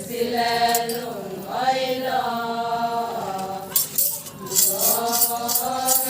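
Group of voices chanting a drawn-out refrain in an Adi ponung dance song. From a little past halfway, a rattle joins in with steady jingling strokes, about two to three a second.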